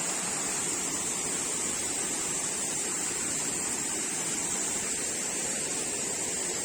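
Steady rush of a waterfall's falling water, an even hiss with no change.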